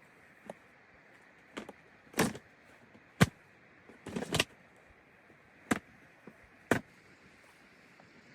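Irregular sharp knocks and clicks, about seven over eight seconds, with a short clatter around four seconds in, over a faint steady hiss.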